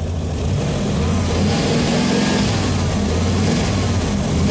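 Truck engine revved up from idle about a second in and held at higher revs, feeding charge through jumper cables into a dead battery.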